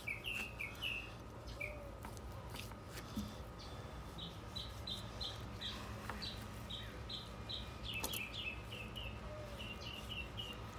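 A small songbird chirping nearby: runs of short, high, quick notes, several a second, in two long series in the second half. A few faint clicks sound under them.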